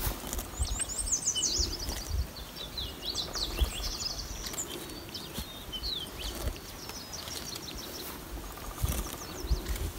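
Songbirds chirping and trilling, busiest in the first half, over a low rumble on the microphone.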